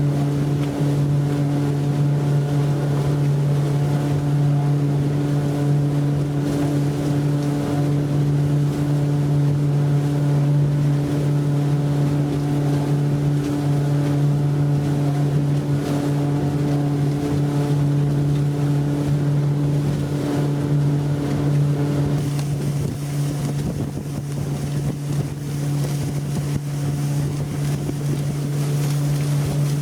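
Yamaha F90C four-stroke outboard motor running hard at a steady speed, a constant even drone with the rush of wind and water over it. A louder hiss joins it about two-thirds of the way through.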